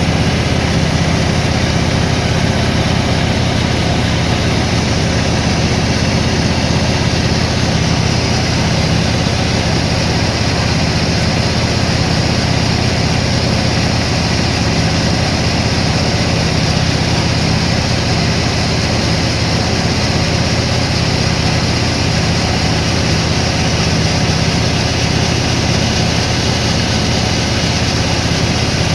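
Sawmill machinery running, a loud steady mechanical hum that stays even throughout.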